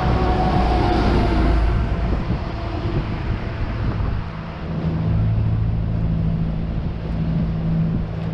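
Street traffic: motor vehicle engines running close by with a steady low hum. It eases off about four seconds in, and another engine hum follows about a second later.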